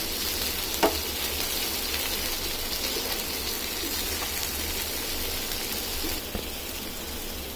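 Masala-coated raw banana slices sizzling in a nonstick pan as they slow-roast on a low flame and are turned with a wooden spatula. There is a steady hiss with one sharp knock about a second in, and the hiss eases a little near the end.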